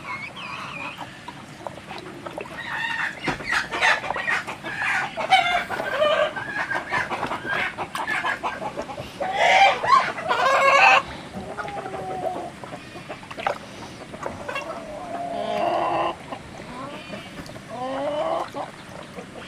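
Chickens clucking on and off, with a louder call lasting about a second and a half near the middle.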